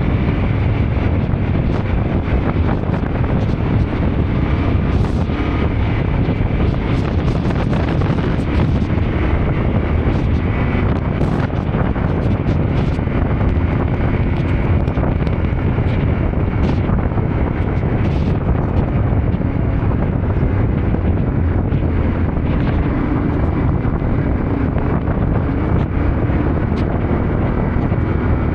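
Yamaha Ténéré 700's parallel-twin engine running steadily while riding, under heavy wind noise on the microphone, with scattered light clicks and ticks.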